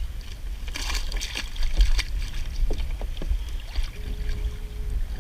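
Wind rumbling on the microphone, with a splash and scattered knocks and clicks of crab gear being handled in a kayak. A short steady squeak sounds about four seconds in.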